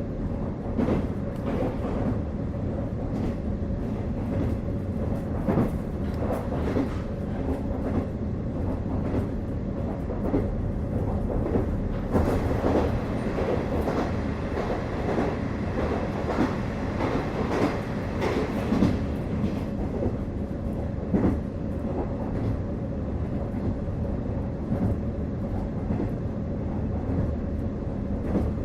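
KiHa 48 diesel railcar running, heard from inside the car: a steady rumble with a constant whine, and irregular clicks and knocks from the wheels passing over rail joints.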